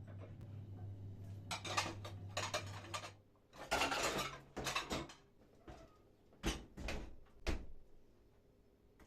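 Dishes and cutlery clattering as they are handled, over a steady low hum that stops about three seconds in, then three dull knocks of things being set down.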